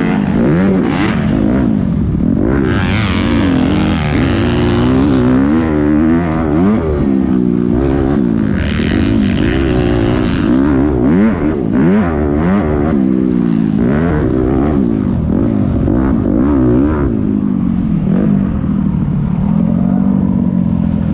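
Several motocross dirt bikes racing, their engines revving up and falling back over and over with overlapping rises and drops in pitch. The sound turns brighter and hissier twice, a few seconds in and again around nine seconds in.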